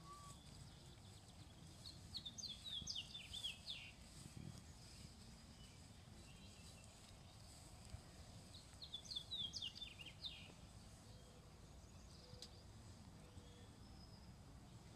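Quiet outdoor ambience with a songbird singing two short phrases of quick, falling high notes, about two seconds in and again about nine seconds in.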